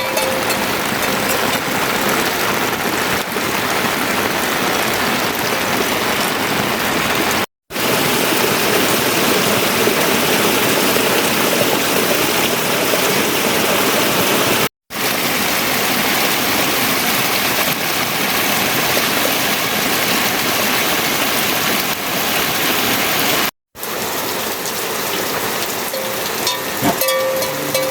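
Steady heavy rain falling, broken by three brief silent gaps.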